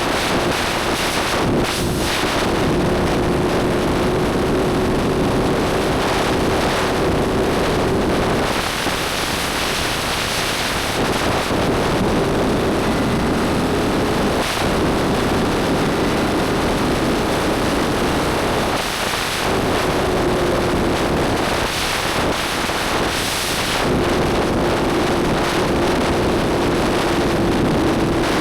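Motorcycle engine running at a steady cruise under heavy wind noise on the microphone. The engine note breaks off briefly a few times, about a third of the way in and again in the later part, as the throttle is eased or a gear is changed.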